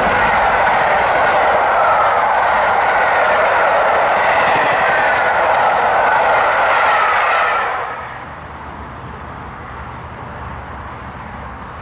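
Passenger coaches of a steam-hauled train passing at speed: a loud, steady rush of wheels on rail with a faint wavering whine. It cuts off abruptly about eight seconds in, leaving a much quieter steady background noise.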